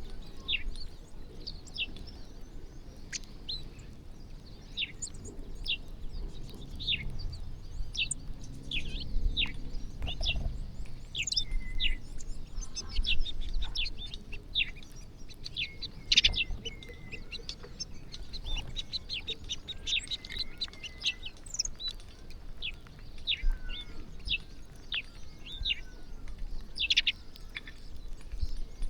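A flock of small birds chirping busily while feeding, many short, high chirps that slide downward and overlap without pause.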